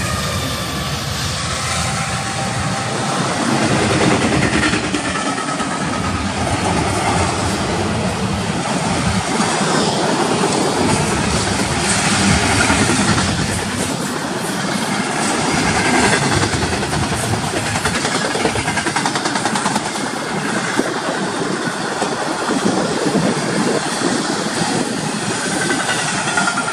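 Union Pacific intermodal freight train's double-stack container cars and trailer flatcars rolling past at speed: a steady rumble and rattle of steel wheels on the rails. Thin high squealing tones come near the start and again near the end.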